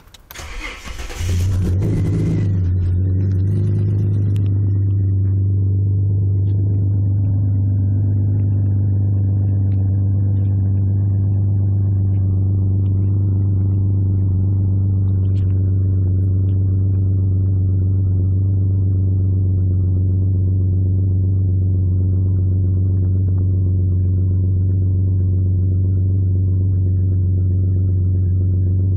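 Ford BA Falcon XR6 inline-six with a stage 4 cam, extractors, high-flow cat and 2.5-inch catback exhaust, starting up about a second in and then idling steadily and loudly. It is a cold start, so the cam's lumpy idle is not heard.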